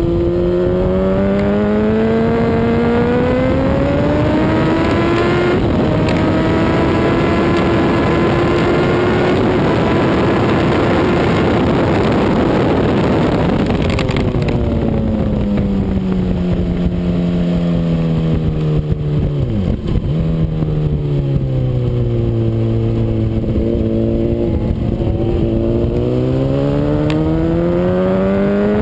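Honda CBR RR sport bike's inline-four engine at full racing revs around a track. Its pitch climbs through the gears with a gear change about five and a half seconds in, then holds high with heavy wind rush. About halfway through it falls away under braking and downshifts, then climbs again hard out of the corner near the end.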